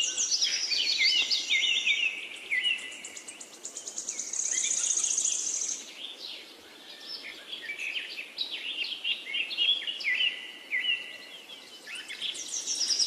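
Several songbirds singing at once, with overlapping chirps and short falling phrases, and a high buzzy trill for about two seconds midway through.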